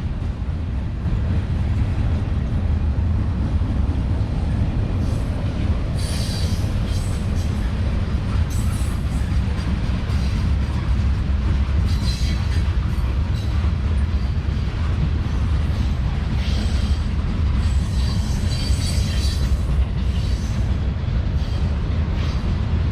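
Freight cars of a CSX manifest train rolling past, a steady low rumble with several brief high-pitched wheel squeals, the longest about two thirds of the way through.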